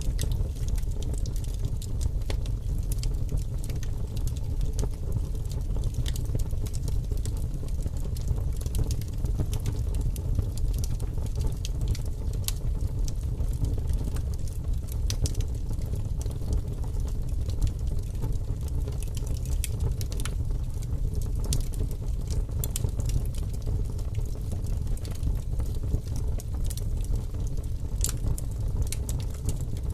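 Burning firewood crackling, with scattered sharp pops and snaps over a steady low rumble.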